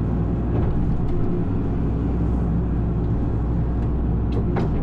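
Excavator diesel engine running steadily at working revs, with a few short clicks or creaks about half a second in and again near the end.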